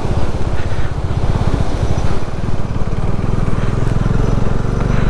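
Bajaj Dominar 250 motorcycle's single-cylinder engine running steadily while riding, its rapid low firing pulses over a steady rushing noise.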